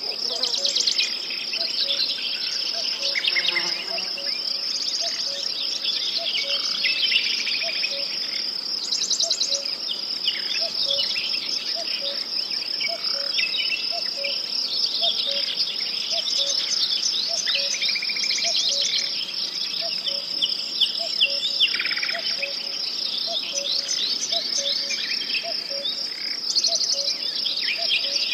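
Many birds singing at once, with overlapping chirps and trills, over a steady high insect trill. A soft low call repeats about once a second beneath them.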